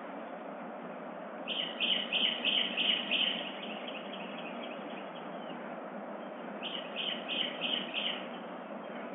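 A songbird calling in two quick series of about five or six notes each, each note dropping in pitch, over a steady background hiss.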